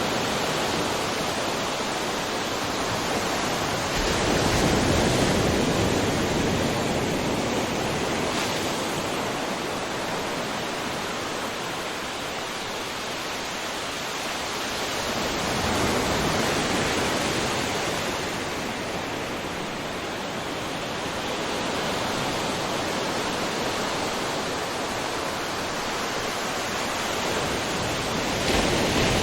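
Ocean waves breaking on a shore: a continuous wash of surf that swells three times, roughly every twelve seconds, as waves crash and then recede.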